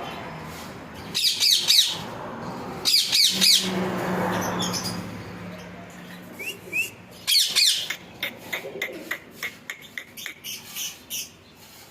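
Pet parrot giving three loud, harsh squawks, then a quick run of short, sharp chirps near the end.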